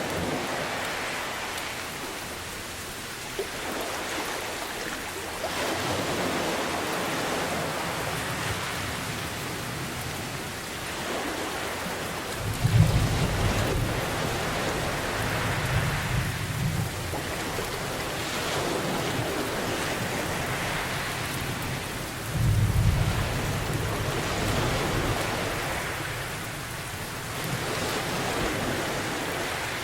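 Steady rain with slow swells of surf washing in every few seconds, and two low rolls of thunder: the first, the loudest, about twelve seconds in, the second about twenty-two seconds in.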